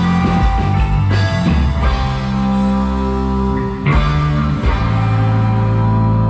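Live rock band playing psychedelic rock with electric guitar and drums. It settles into a long held chord about three-quarters of the way through.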